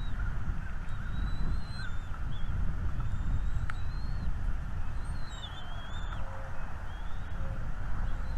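Small birds calling outdoors: thin, high, wavering whistled notes every second or so, over a steady low rumble, with one sharp click about halfway through.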